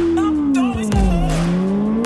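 Racing motorcycle engine on track, its note falling for about a second as it slows, then rising again as it picks up speed, under background music.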